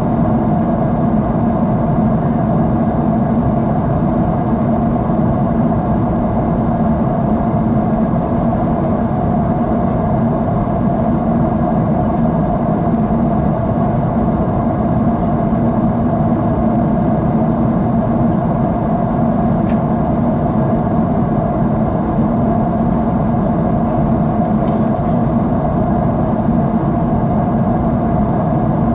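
Steady drone of a jet airliner's engines heard inside the passenger cabin: an even, unbroken rush with a low hum and a mid-pitched band held constant throughout.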